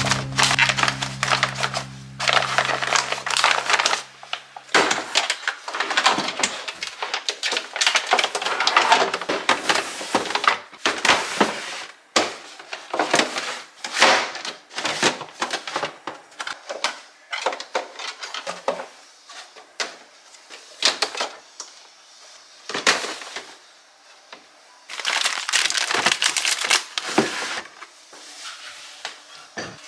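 Close-up handling sounds: a dense run of irregular clicks, scrapes, rustling and crinkling, with background music ending about four seconds in.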